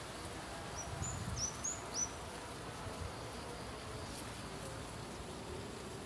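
A small bird gives five short, high, thin chirps in quick succession, each note a brief downward slur. A steady buzzing hum runs underneath.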